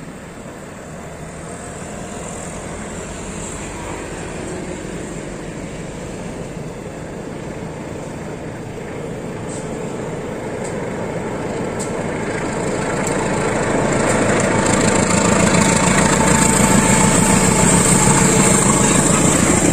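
Diesel locomotive hauling a passenger train, approaching and then passing close by. The engine and wheels on the rails grow steadily louder, loudest in the last few seconds.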